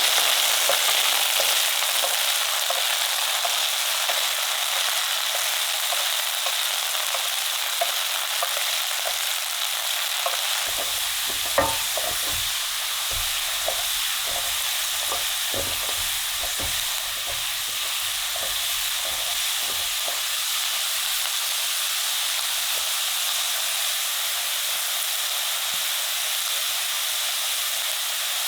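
Potatoes sizzling steadily as they fry in oil and butter in a pan. About a third of the way through, a utensil knocks and scrapes against the pan for several seconds as the potatoes are stirred.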